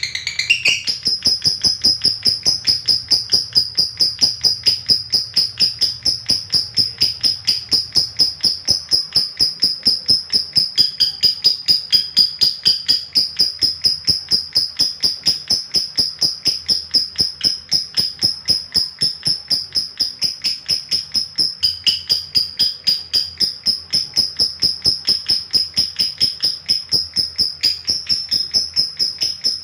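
Fighter lovebird in long ngekek: one unbroken string of rapid, shrill chattering notes at several per second, held at a steady high pitch.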